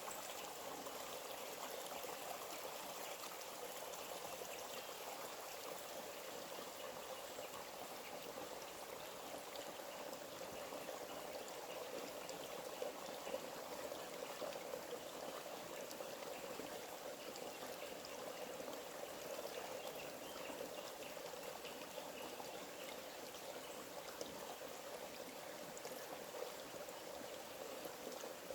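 A forest stream trickling and gurgling steadily.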